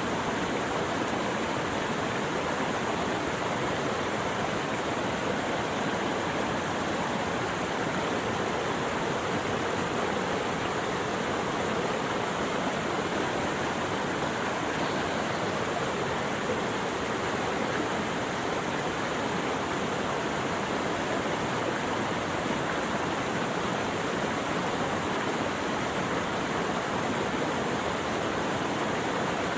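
Steady, even rush of flowing water with no birdsong or other distinct sounds.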